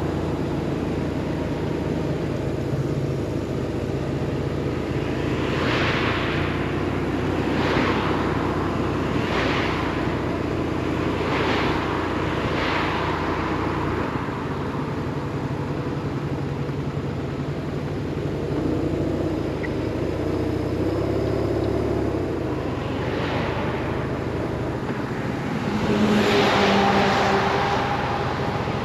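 BMW R 1150 RS's boxer-twin engine running steadily under way, with wind noise and several brief whooshes.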